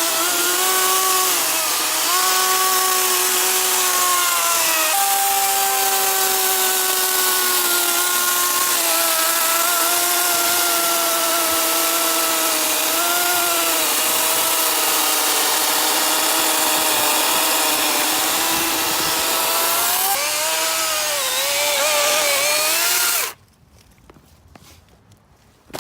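DeWalt FlexVolt 60V brushless cordless chainsaw running with a steady electric whine while cutting into a solid trunk, its pitch dipping and recovering as the chain takes load. It cuts off suddenly near the end, leaving a few faint knocks.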